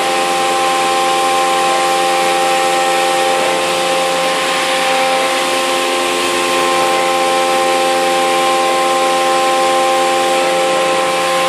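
CNC milling spindle at 8,000 rpm driving a 3-flute end mill through 6082 aluminium on a trochoidal toolpath, 20 mm deep. The cut is a steady whine of several held tones over a hiss of cutting noise.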